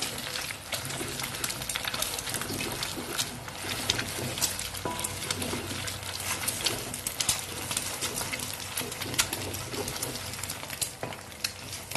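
Eggs sizzling in hot oil in a wok, with a steady crackling hiss full of sharp pops, while a wooden spatula pushes and chops them into pieces against the pan.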